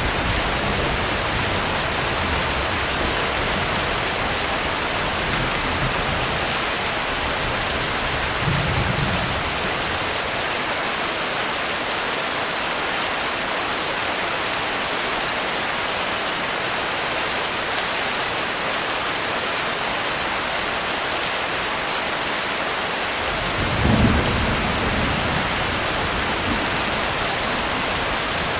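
Steady heavy rain hissing throughout, with low rolls of distant thunder: one fading out at the start, a soft one about nine seconds in, and a louder one about 24 seconds in.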